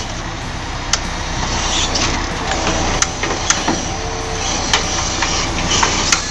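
A heavy machine or vehicle running steadily, with scattered sharp clicks and knocks.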